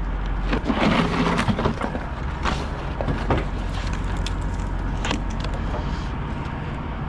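Heavy-haul truck's engine idling with a steady low rumble, with scattered sharp knocks and clicks over it, most in the first couple of seconds.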